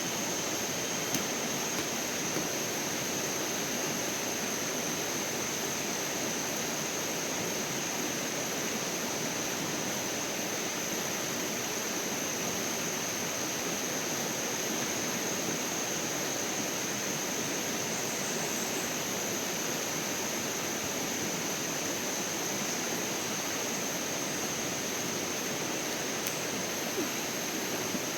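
Steady rush of flowing water, an even unbroken noise, with a thin high tone held steadily above it.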